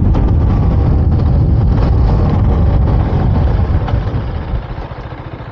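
KTM Duke 390's single-cylinder engine running at riding speed, then its note dropping as the bike slows down, getting quieter over the last couple of seconds.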